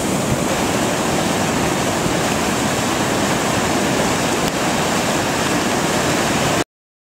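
Rain-fed volcanic lahar flood rushing down a river channel, a steady heavy rushing of water carrying boulders and sand. The sound cuts off abruptly about six and a half seconds in.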